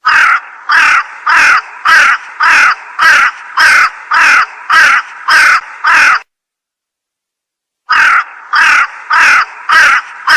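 Crow-like caws, a cartoon sound effect: about eleven loud, evenly spaced harsh calls, roughly two a second, then a pause of about a second and a half and another run of calls.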